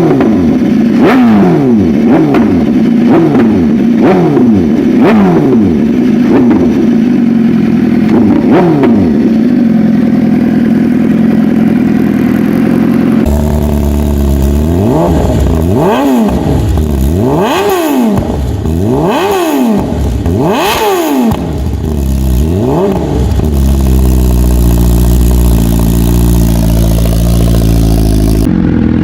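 BMW S1000RR inline-four engine through aftermarket exhausts, first an SC Project system, being revved in quick blips about once a second. After a cut, another clip brings bigger rises and falls in revs about every second and a half. It then settles to a steady idle.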